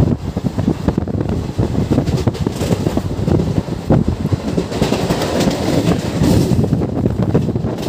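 Express passenger train running at speed, heard from on board: a steady rumble with irregular clatter of the wheels over rail joints, and a rushing hiss of air through the middle.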